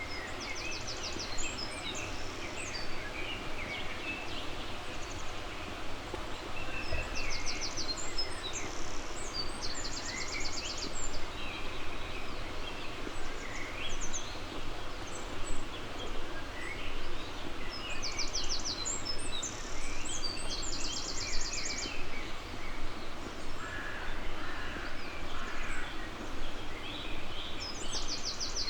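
Songbirds singing over a steady background hiss. One bird repeats a fast, high trill about every nine seconds, and other birds add scattered shorter notes in between.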